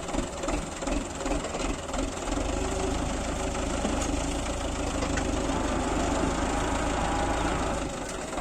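A heavy engine idling with a steady low pulse, uneven for the first couple of seconds before it settles.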